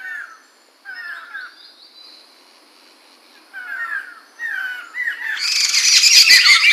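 Poksay mantel laughingthrush singing: short phrases of quick gliding whistles with a pause in between, then breaking into a loud, dense burst of song about five seconds in.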